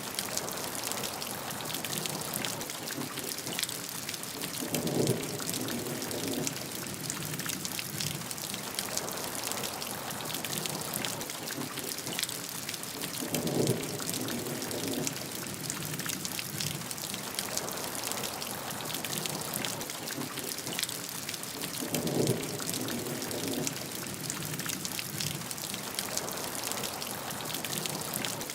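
Steady heavy rain falling on a surface, a dense patter of individual drops over a constant hiss. Three short low rumbles stand out above it, evenly spaced about eight seconds apart.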